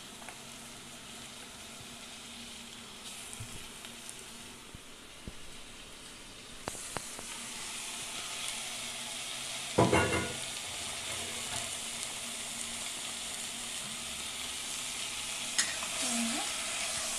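Chicken and onions frying in hot oil in an open pressure cooker: a steady sizzle that grows louder about seven seconds in. One short knock about ten seconds in.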